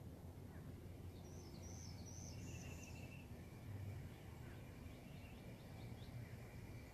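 Faint birdsong over a steady low outdoor rumble: a short, steady whistled note repeated, a high chattering phrase about a second in, and a quick run of short notes near the end.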